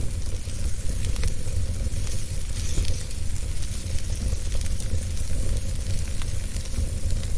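Fire burning in a fireplace: a steady hiss over a low rumble, with scattered small crackles.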